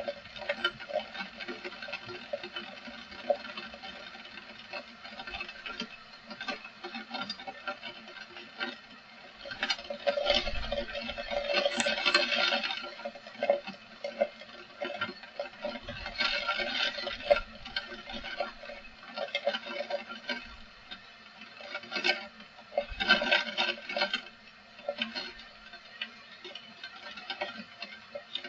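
Heavy rain pattering hard in a dense stream of drop hits, swelling louder in gusts about a third of the way in and again twice later.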